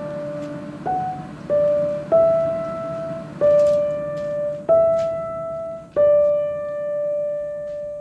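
Background music: slow piano, single notes struck one at a time about every second, each left to decay, the last one ringing out and fading.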